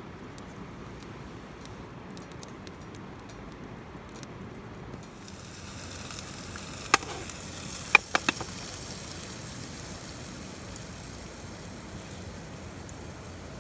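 Steady hiss and sizzle of a burning fire, growing louder about five seconds in, with a few sharp clicks or pops near the middle.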